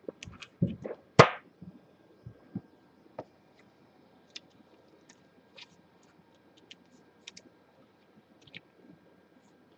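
Handling of trading cards and their packaging: a quick run of sharp clicks and snaps in the first second and a half, the loudest about a second in, then sparse light taps and clicks.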